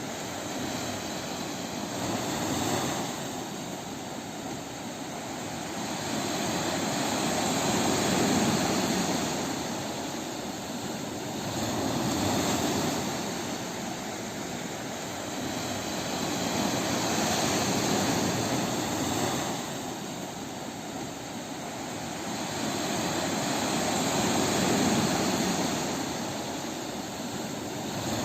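Ocean waves breaking on a beach: a steady wash of surf that swells and fades every few seconds.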